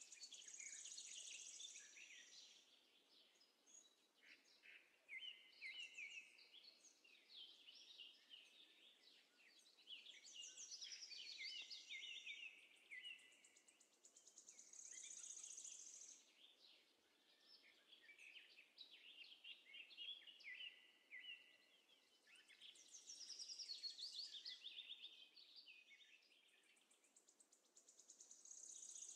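Faint birdsong: spells of high chirping and trilling that come and go every few seconds over a low background hiss.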